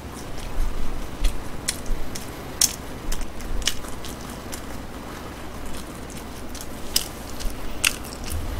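A person chewing food close to the microphone, with a handful of short, sharp mouth clicks spread through it.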